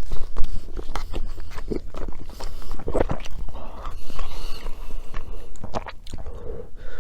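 Close-miked eating: a person biting and chewing food, with many irregular sharp mouth clicks and short bursts.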